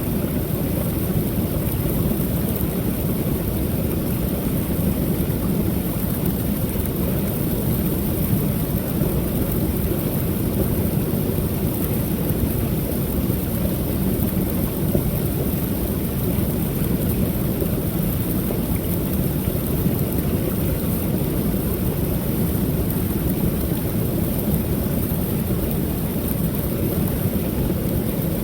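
Creek waterfall: water pouring steadily over the fall, a deep, even rush with a thin high hiss above it.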